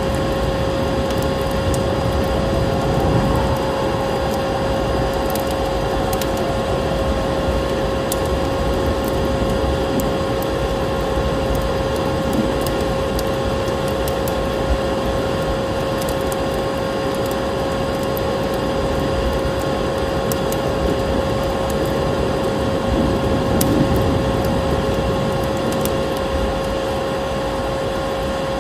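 Vacuum cleaner running steadily with a constant motor whine, over scattered small crackles of a wood fire.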